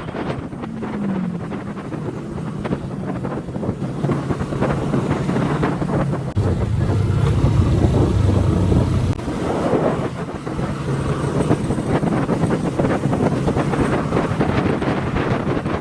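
Motorcycle engine running while riding, with heavy wind buffeting on the microphone; the engine grows louder for a few seconds in the middle.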